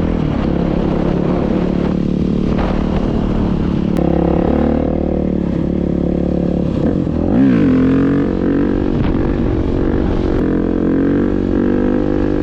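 Dirt bike engine running under way, its pitch dropping briefly and then climbing again about seven seconds in as the revs fall and pick back up.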